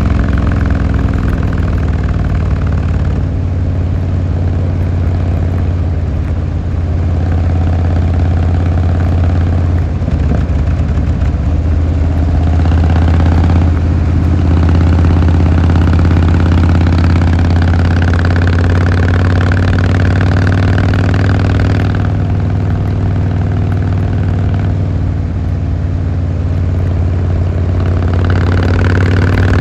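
Harley-Davidson Fat Boy Lo V-twin engine running on the road. Its note rises and eases off several times as the throttle opens and closes.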